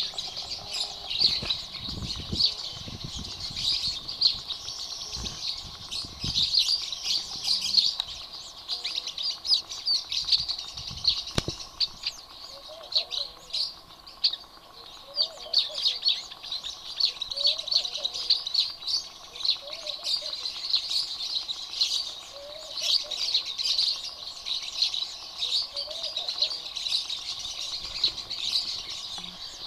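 Many small exotic aviary birds chirping together in a dense, unbroken chatter. Through the second half a lower call repeats about every two seconds, and a few low thumps sound in the first half.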